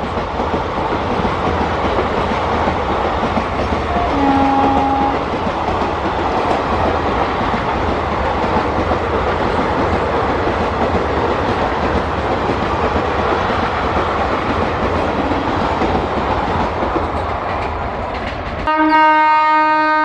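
Indian Railways train passing at speed, with a steady rush of rumbling wheel and rail noise and a short horn blast about four seconds in. Near the end the rumble stops abruptly and a loud, full-toned locomotive horn sounds.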